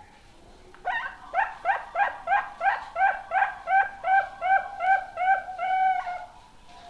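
A young zebra dove (perkutut) cooing: a run of about fourteen short, quick notes, about three a second, ending in a longer held note.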